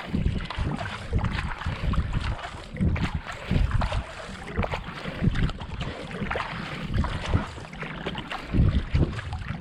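Kayak paddle blades dipping and pulling through canal water in a steady rhythm at about 70-80 strokes a minute, with wind buffeting the action-camera microphone in low rumbles.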